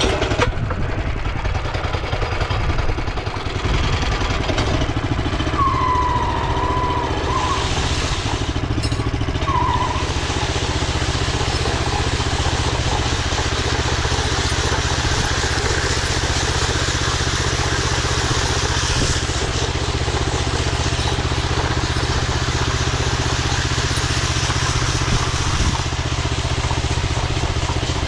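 Gasoline engine of a power trowel running steadily while its blades work a setting concrete slab. A brief squeak comes twice, about six and ten seconds in.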